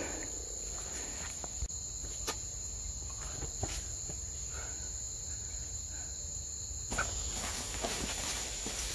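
Crickets chirring steadily in one high, even tone, with a few faint clicks and knocks.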